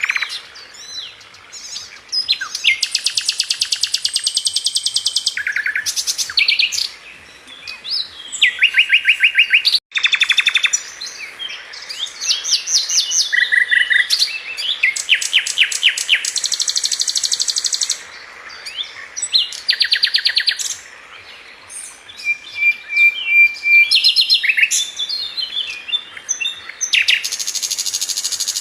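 Sikatan london, a flycatcher as named in Indonesian songbird keeping, singing: loud, high-pitched rapid trills and chirp runs, one after another with short pauses between. The sound drops out for an instant about ten seconds in.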